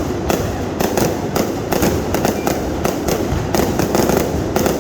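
Fireworks display: aerial shells bursting in a dense, irregular run of bangs and crackles, several a second, with no break.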